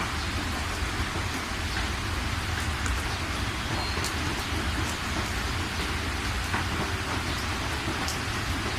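Steady rainfall pattering on surfaces, with a scattering of sharp individual drop hits and a steady deep rumble underneath.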